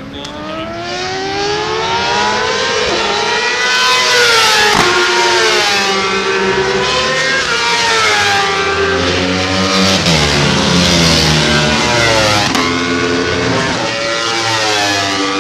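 Several racing motorcycles passing at high revs, one after another, their engine notes climbing and dropping with gear changes. One note falls sharply as a bike goes by about five seconds in.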